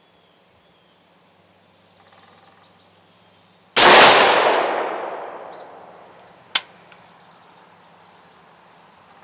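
A single rifle shot from a Head Down HD15 AR-15-type rifle, sharp and loud, with its echo rolling away over about two and a half seconds. A short sharp metallic clink follows a few seconds later.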